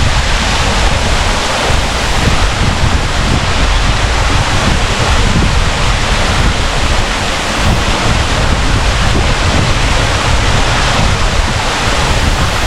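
A small waterfall splashing into a pool: a loud, steady rush of water, with wind rumbling on the microphone.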